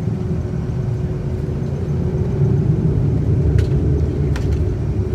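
Cabin noise of a Boeing 757-200 taxiing toward the runway: a steady low rumble from the engines at taxi power and the rolling gear, with a constant hum, growing a little louder about halfway through. Two faint clicks come near the end.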